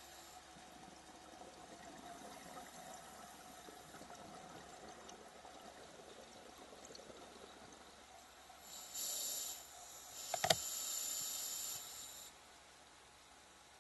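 Scuba diver's regulator breathing underwater: a faint steady hum and background for the first several seconds, then a short hissing rush of breath and bubbles about 9 seconds in and a longer one from about 10 to 12 seconds, with one sharp click in between.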